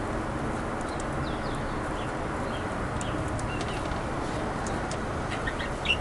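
Small aviary birds chirping faintly with short, scattered notes, and one louder chirp near the end, over a steady background noise.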